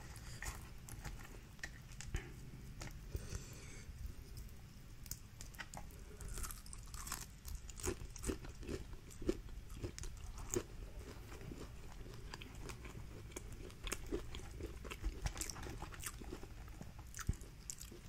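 Close-miked eating sounds from a seafood boil: chewing and crunching, with many scattered sharp clicks and cracks of hands working the shellfish.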